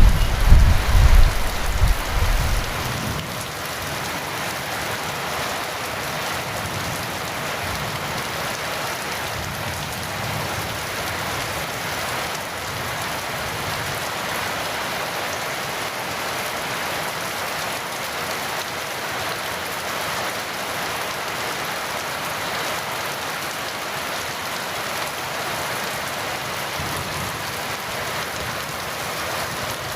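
Heavy rain falling steadily. A roll of thunder dies away in the first few seconds.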